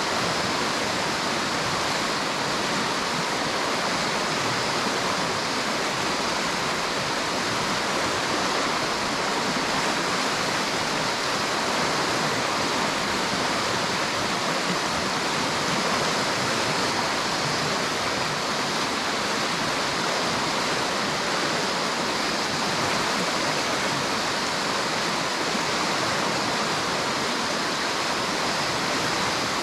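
River water running: a steady, even rush.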